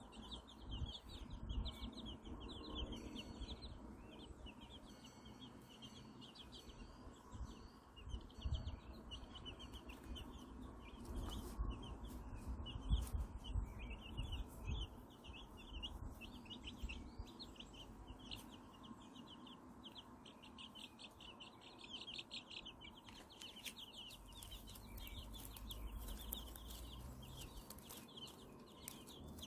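A brood of newly hatched white silkie chicks peeping continuously: many short, high peeps overlapping in quick succession, with a few soft low thumps.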